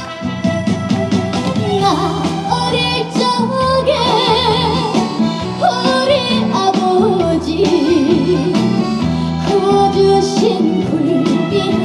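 Live trot song: a female voice sings phrases with strong vibrato over a band accompaniment with a steady beat.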